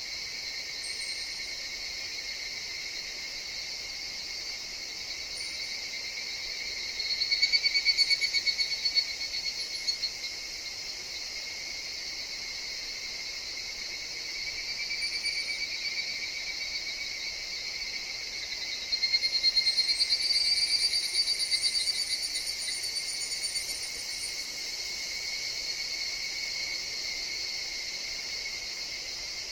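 Higurashi (evening cicadas) calling in a chorus: a steady high, pulsing trill that swells louder several times as individual calls rise and fade, with faint high chirps above it.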